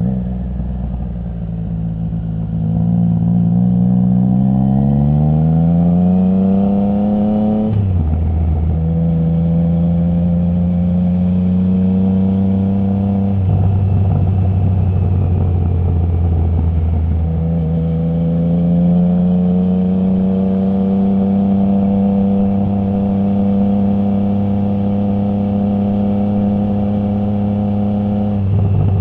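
Triumph Trident 660's inline three-cylinder engine through a Zard full exhaust with the baffle removed, accelerating with rising pitch and then changing up a gear about eight seconds in, the pitch dropping at once with no pause, as a quickshifter does. It then holds a steady drone, turns rough and uneven for a few seconds around the middle, and climbs slowly again before another quick shift near the end.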